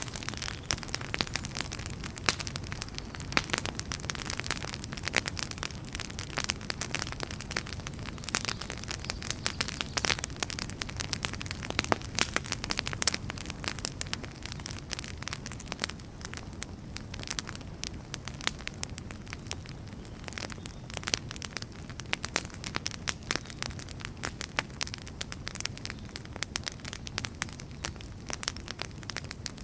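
Wood fire crackling, with frequent sharp pops and snaps over a steady low rumble of burning logs.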